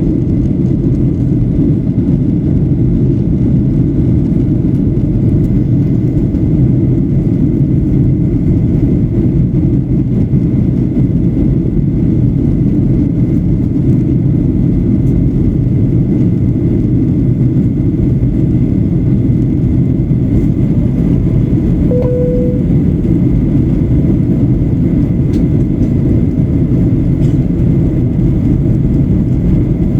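Steady cabin roar of a Boeing 737-800 in flight: engine and airflow noise. A short single tone sounds once about three quarters of the way through.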